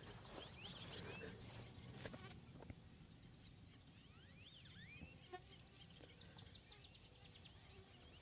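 Faint birdsong: scattered short rising chirps, then about five seconds in a quick trill of a dozen or so high notes, over a quiet low background hum.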